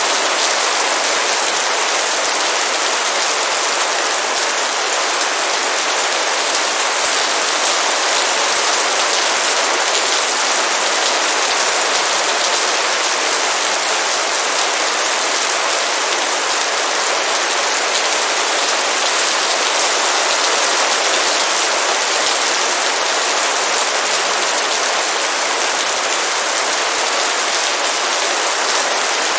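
Heavy rain pouring steadily onto a surface, a dense, even hiss with no letup.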